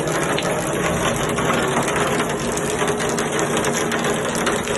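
Heavy rain pelting down steadily in a dense patter of fine hits, with a steady low hum underneath.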